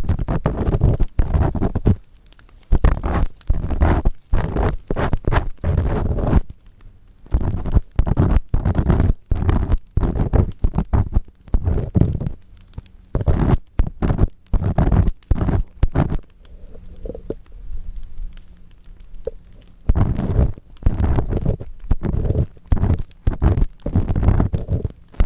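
Earpick scraping and rubbing firmly inside the ear of a 3Dio binaural microphone, in irregular gritty strokes, with a pause of a few seconds about two-thirds of the way through.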